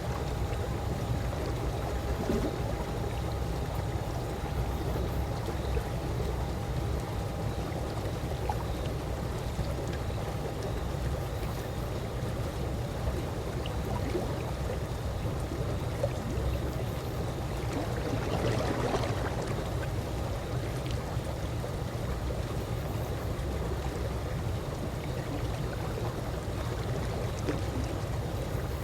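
Calm pool water lapping and trickling steadily, with a low rumble underneath and a slightly louder swell of splashing about two-thirds of the way through.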